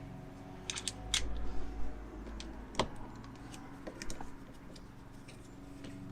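Scattered sharp clicks and light metal taps from hand tools being handled, as a star-head (Torx) screwdriver bit is tried in a corroded screw. There is a quick cluster of clicks about a second in and a louder single click near three seconds in, over a faint steady hum.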